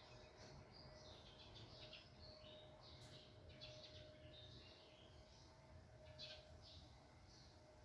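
Small birds chirping, with many short, high calls coming quickly one after another, faint.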